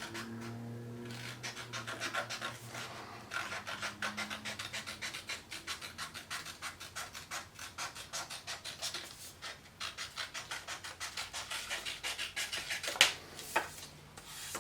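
Scissors cutting through folded cardstock in a run of quick, crisp snips, with a sharper click near the end.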